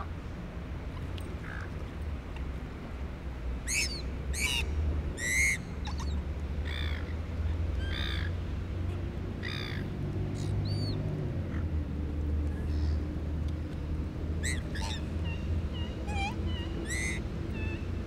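A bird calling over and over in short, arching, high-pitched notes, in two bouts, over a steady low hum.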